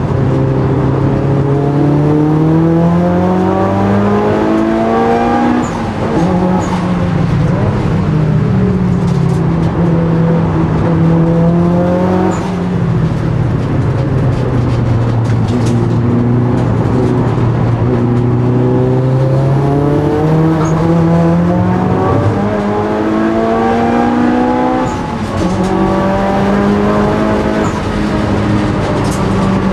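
Mitsubishi Lancer Evolution VIII's turbocharged 2.0-litre four-cylinder engine, heard from inside the cabin at race pace. The revs climb and fall again and again through gear changes and corners.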